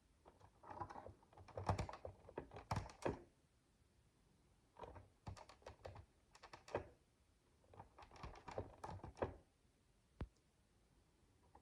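Micro bricks, miniature plastic building bricks, being handled and pressed together: faint clusters of small plastic clicks and rattles in three bursts, with a single click near the end.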